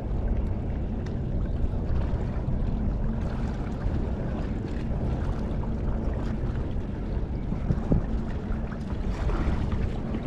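Wind buffeting the microphone, with a steady low hum beneath it.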